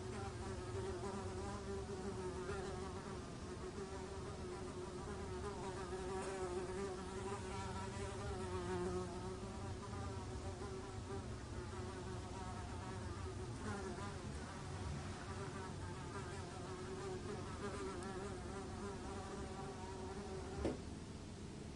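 A fly buzzing continuously, its pitch wavering up and down slightly as it flies about. A single short click near the end.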